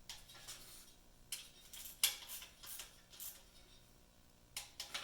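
Short, irregular metallic clinks and clicks of a 3/8-inch drive wrench and socket working on the oil pan mounting bolts as they are tightened in sequence.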